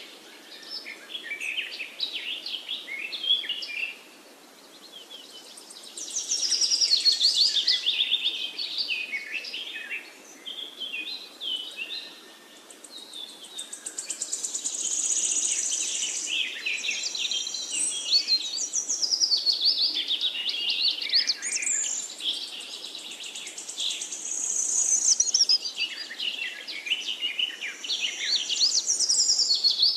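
Several wild birds singing and calling: a busy chorus of quick, varied chirps and trills that comes and goes, easing off around four and twelve seconds in.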